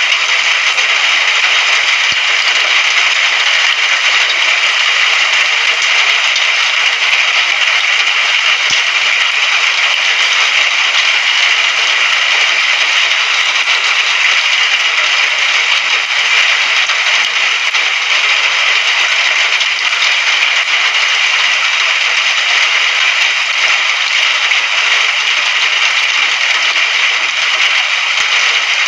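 Steady heavy rain: a dense, even hiss that neither builds nor fades, with no thunder.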